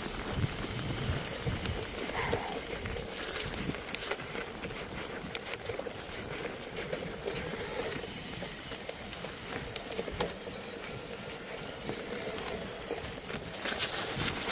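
Bicycle riding over a snowy mountain trail: steady rolling noise with many scattered clicks and rattles.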